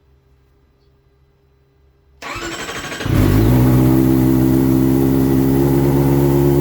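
Kawasaki ZX-25R's inline-four engine, breathing through an LCIPARTS GP titanium full exhaust, cranking on the starter for about a second and firing up, then settling into a loud, steady idle.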